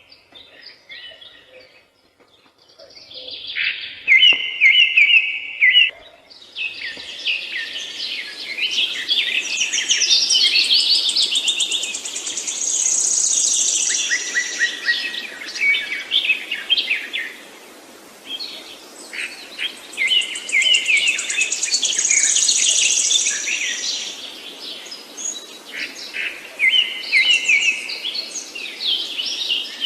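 A chorus of songbirds singing and chirping over one another, with quick repeated trills and high chirps. It swells and thins in waves every few seconds.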